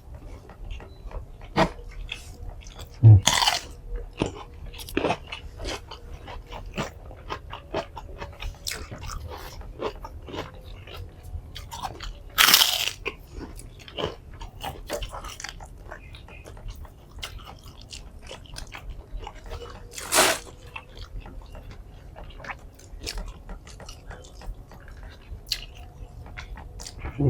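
Close-miked mukbang eating of a nasi padang meal: steady chewing with many small wet clicks. Three louder crunchy bites come about three, twelve and twenty seconds in.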